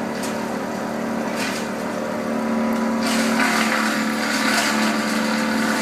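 Engine of the tree crew's cutting equipment running steadily, growing louder and rougher about three seconds in.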